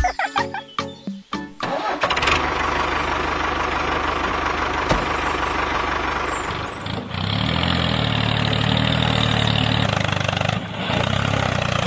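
A short bit of music, then an engine starts and runs steadily, dipping briefly twice.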